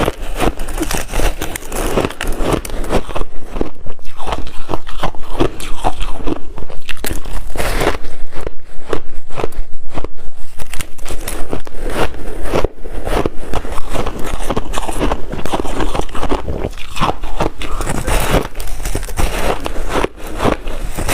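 Close-miked biting and chewing of water-dipped shaved ice: a fast, continuous run of crunches, loudest through the middle stretch.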